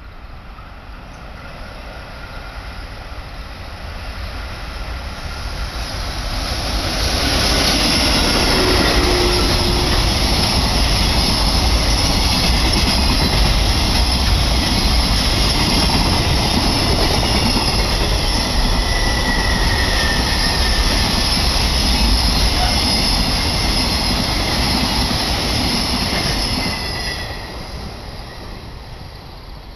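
Freight train hauled by an EF81 electric locomotive passing close by: a rushing, rumbling noise that builds over the first seven seconds as it approaches, stays loud and steady while the long string of container wagons runs past, and drops away sharply near the end as the last wagons go by. A brief high whine sounds about two-thirds of the way through.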